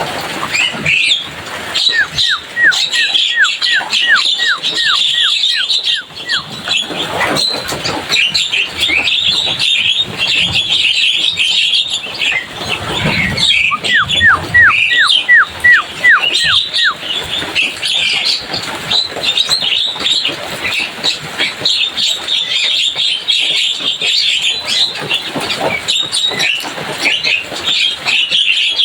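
Javan myna (jalak kebo) chattering noisily without a break, with two runs of quick, evenly repeated down-slurred whistles, one about two seconds in and another about fourteen seconds in.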